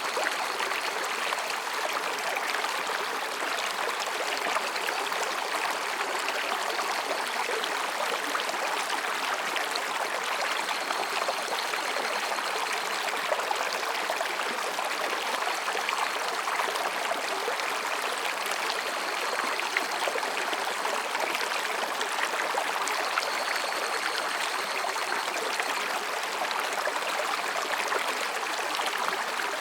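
Mountain stream babbling over and between rocks, a steady rush of water. Faint high-pitched calls of higurashi cicadas (evening cicadas) come in now and then.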